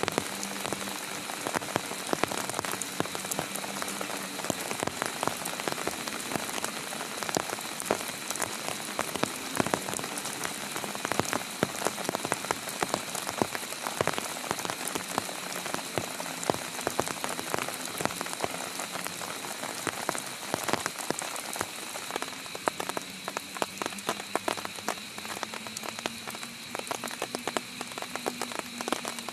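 Heavy rain falling steadily, with many sharp individual drop hits on a near surface.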